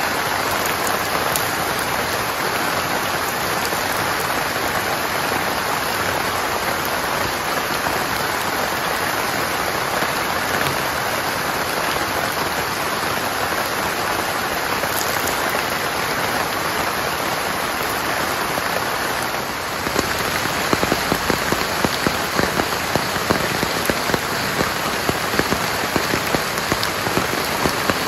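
Heavy rain falling steadily. About twenty seconds in it changes to louder, distinct drops striking a surface close by, ticking over the steady rush.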